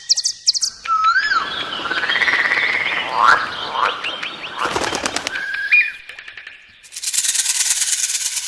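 Birds calling with short rising and falling chirps over a rustling, flapping noise, then, about seven seconds in, a fast high-pitched pulsing trill.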